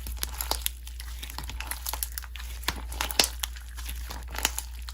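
Slime being squished and pressed by hand, crackling with many irregular small clicks and pops, over a steady low hum.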